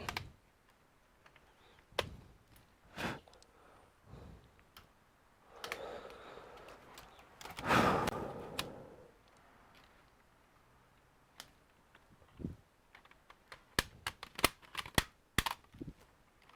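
Scattered sharp clicks and taps of small screws and a screwdriver on a laptop's plastic case during disassembly, with a longer rustling scrape in the middle and a quick run of clicks near the end.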